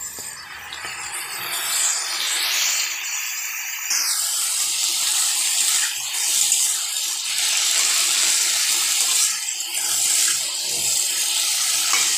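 Yellow cauliflower florets and potato frying in hot oil in a metal kadai: a steady sizzle as they are stirred with a steel spatula. The sizzle shifts abruptly about four seconds in.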